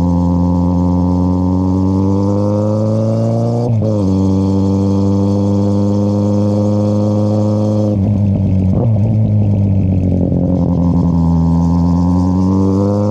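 2013 Kawasaki Z800's inline-four engine through an Akrapovic exhaust with the dB killer removed, accelerating with the revs climbing, dropping sharply at an upshift about a third of the way in, then pulling again. About two-thirds in the throttle closes and the note falls and turns ragged, then the revs climb again near the end.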